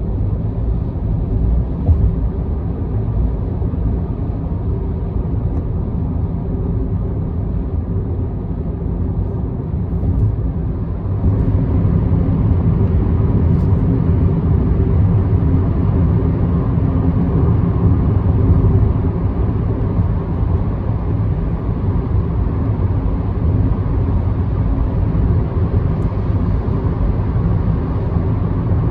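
Steady tyre and engine rumble of a car cruising on an expressway, heard from inside the car. It gets louder and a little harsher about eleven seconds in.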